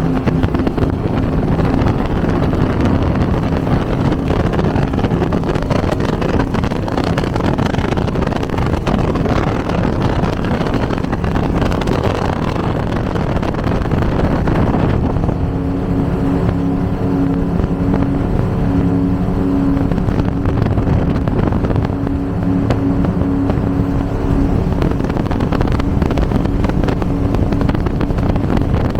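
Twin V8 engines of an Avanti 33 powerboat running steadily at speed over a rushing noise of wind and water. About halfway through, the engine's steady note stands out more clearly.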